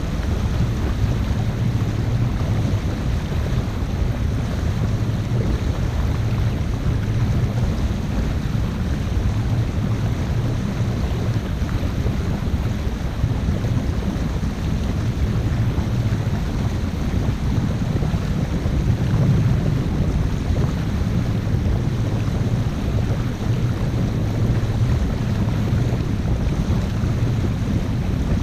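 A 50-foot sail/motor boat under way: a steady low rumble of engine and rushing water, with wind buffeting the microphone.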